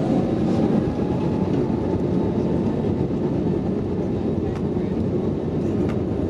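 Steady cabin rumble of an Airbus A321neo with Pratt & Whitney PW1100G geared turbofan engines under takeoff power, heard from inside the passenger cabin, with a faint held engine tone above the roar. Two faint clicks come near the end.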